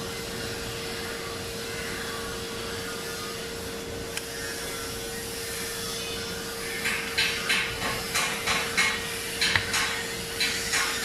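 A steady hum, then from about seven seconds in, short rhythmic scraping strokes, about three a second, of a hand tool worked back and forth on a part.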